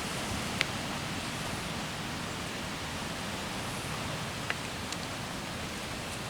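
Steady hiss of outdoor ambience, with a couple of faint clicks about half a second and four and a half seconds in.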